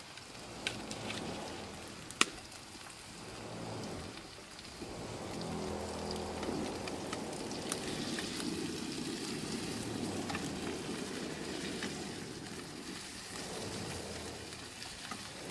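Tomatoes and onion masala frying in a kadhai, a steady sizzle and spatter as a spatula stirs them, with one sharp knock about two seconds in. The tomatoes are being fried until soft.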